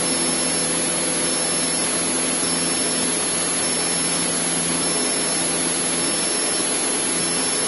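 Cessna 152's four-cylinder Lycoming O-235 engine and propeller running steadily at full climb power, heard inside the cockpit as a constant drone.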